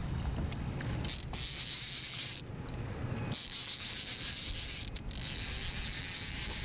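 Fishing reel whirring in three stretches of about a second and a half each while a hooked white sturgeon is played. A low rumble runs underneath.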